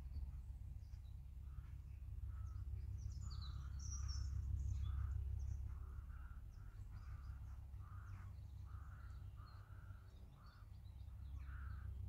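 A bird calling in a long run of short, harsh calls, more than a dozen of them, with small birds chirping higher up, over a steady low rumble of wind on the microphone.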